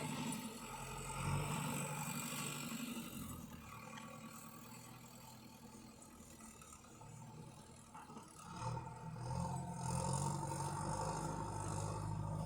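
Tractor engine running. It fades out in the middle and comes back louder about two-thirds of the way through.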